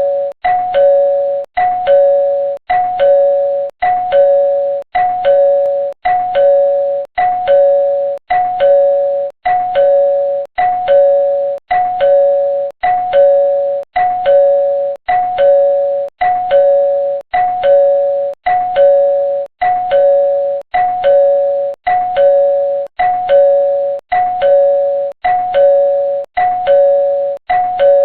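Two-note ding-dong doorbell chime, a higher note falling to a lower one, repeated over and over about once a second.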